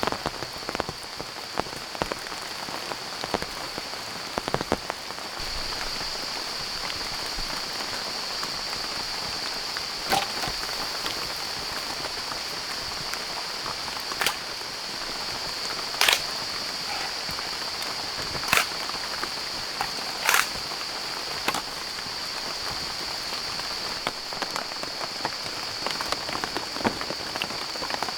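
Steady rain pattering on a surface, with a scatter of sharp drop strikes and a few louder single drops hitting close by. A steady high-pitched hum runs underneath and grows a little louder about five seconds in.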